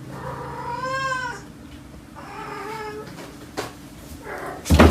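A cat meows twice in long, drawn-out calls, the first rising and then falling in pitch. Near the end comes a short, loud burst of noise.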